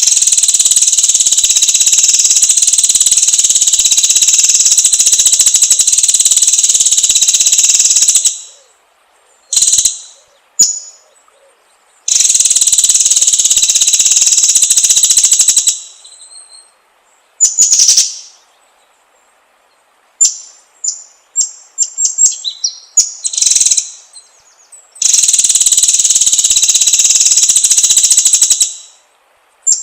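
Recorded white-rumped shama (murai batu) song: three long, rapid trills of several seconds each, high-pitched and loud, broken by short sharp notes. A quick run of separate chips comes about two-thirds of the way through.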